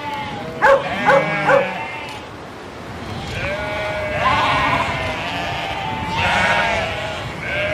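Flock of sheep bleating, with long overlapping calls from about three seconds in. About a second in, a dog barks three short times.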